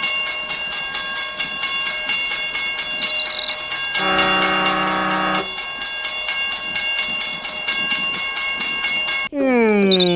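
Train running with a steady clickety-clack of about five clacks a second, and a horn sounding for about a second and a half some four seconds in. Near the end it cuts abruptly to a falling, sliding tone.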